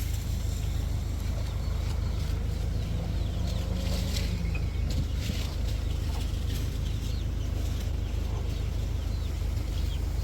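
Chickens clucking over a steady low rumble, with a cluster of short calls about four seconds in.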